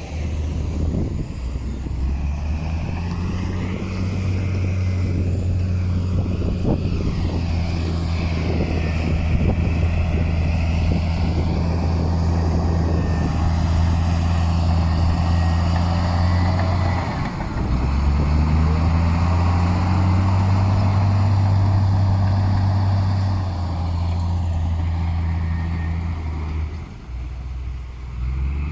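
Heavy diesel engine of earthmoving machinery running hard, its pitch dropping and rising a couple of times as the load changes, with irregular clanking in the first several seconds.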